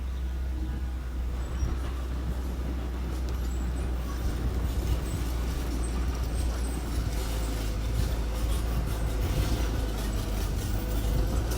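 Diesel engine of small earthmoving machinery running steadily, with clanking and rattling growing more frequent in the second half.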